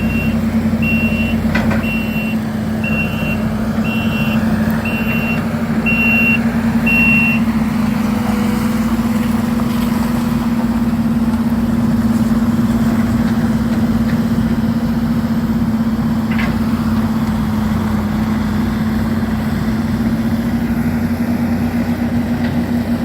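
Diesel engine of heavy demolition equipment running steadily, with a backup alarm beeping about once a second that stops about seven seconds in. A couple of faint knocks come through the engine noise.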